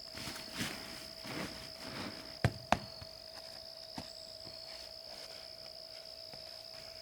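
Insects calling steadily, a constant high-pitched drone with a second, lower steady tone under it. Rustling handling noises in the first two seconds, then two sharp clicks in quick succession about two and a half seconds in, the loudest sounds here, and a lighter tick a little later.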